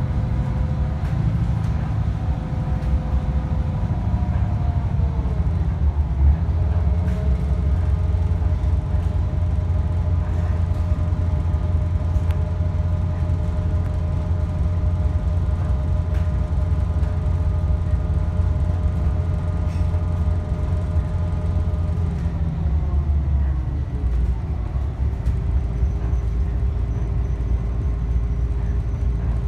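Diesel railcar heard from inside the carriage while under way: a steady low rumble with a pitched engine note that falls in pitch about four seconds in and again near the end.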